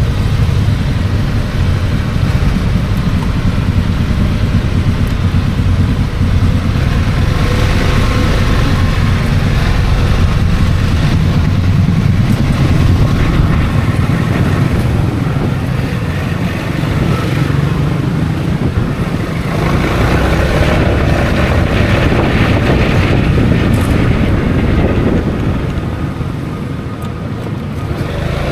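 Heavy wind buffeting on an action camera's microphone while riding a Honda Forza 350 scooter, with the scooter's engine running underneath. It eases off a little near the end.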